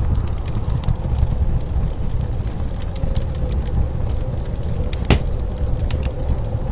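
Wood fire crackling with scattered sharp pops, one louder pop about five seconds in, over the steady low noise of blizzard wind.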